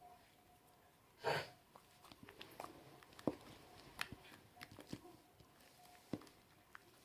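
Hands kneading and mixing slime: sticky clicks and small pops as it is pressed and pulled, with one louder squish about a second in.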